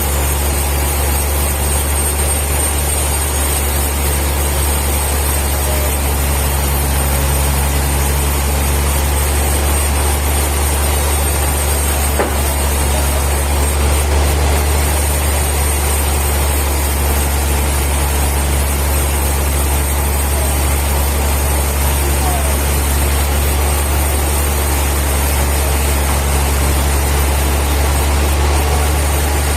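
Sawmill machinery running with a steady low drone, with no cutting strokes or impacts standing out.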